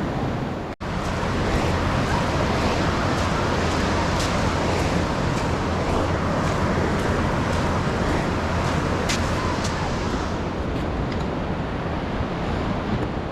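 Steady ocean surf and wind buffeting the microphone, with a few faint clicks scattered through and a brief break in the sound under a second in.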